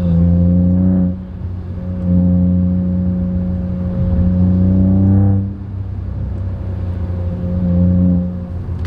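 Ford Fiesta EcoBoost engine heard from inside the car through a Cobra cat-back performance exhaust while driving, a steady drone that swells louder several times as the throttle is opened and eases back in between.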